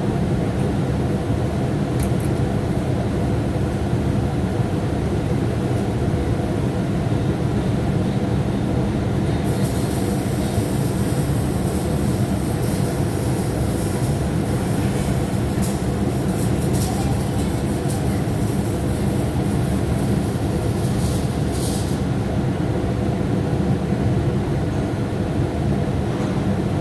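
Steady low machine hum throughout, with the crackle of an electric welding arc from about a third of the way in until near the end, where it stops.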